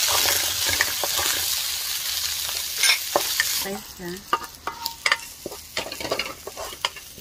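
Minced garlic and chilies sizzling in hot oil in a nonstick pan, stirred with a wooden spatula. A little past halfway the sizzle stops, giving way to scattered clicks and taps as the spatula scrapes the fried garlic into a glass bowl.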